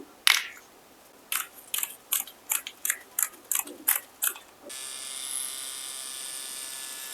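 A series of short, sharp plastic clicks, about three a second, from handling the parts of a wireless tattoo machine. Then, near the middle, the wireless tattoo pen switches on and runs with a steady high buzz.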